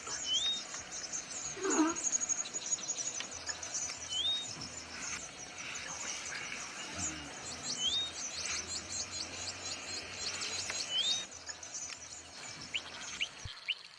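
Birds calling: a short rising whistle repeated four times, about every three and a half seconds, over a dense high-pitched chirping chorus.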